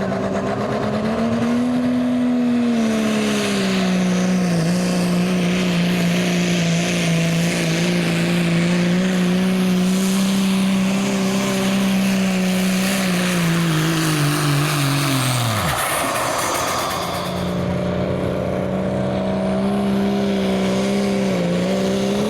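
Diesel pickup truck engine held at high revs under load while pulling the sled, over a loud hissing rush. About two-thirds of the way through the engine note falls away steeply to nothing, and a couple of seconds later a steady high-revving engine note comes back.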